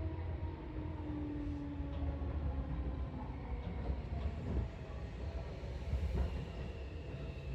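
Seibu 4000 series electric train running along the line, heard from on board: a steady low rumble of wheels on rail with a faint humming tone that slides slightly lower in pitch in the first two seconds, and a few light clicks.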